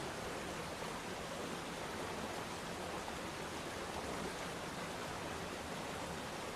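Waterfall: water falling steadily into a pool, an even, unbroken rush.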